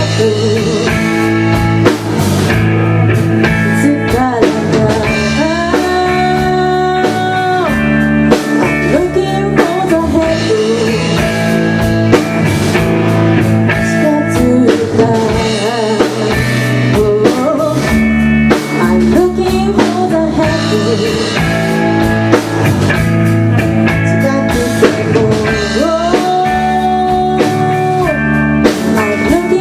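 Live rock band playing with electric guitar, bass and drum kit, a lead line holding long notes over a steady beat, with singing in places.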